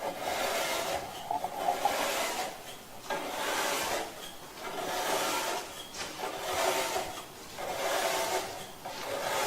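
A stiff bristle brush scrubbing the aluminium fins of an air-conditioner's evaporator coil, in repeated up-and-down strokes about one every second or so.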